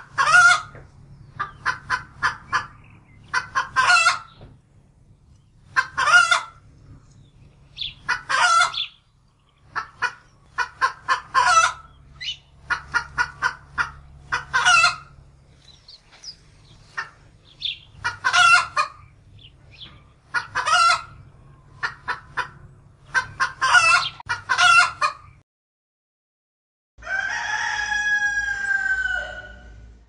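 A large flock of chickens: hens clucking and cackling and roosters crowing, with loud calls every couple of seconds and runs of short clucks between. The calling breaks off a few seconds before the end, and after a short gap a different drawn-out sound with a gliding pitch follows.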